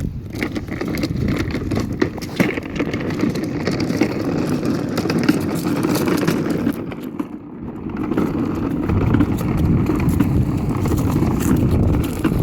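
Child's battery-powered ride-on toy truck driving along, its motor and plastic wheels making a steady rumble on the pavement that eases off briefly about seven seconds in, then picks up again.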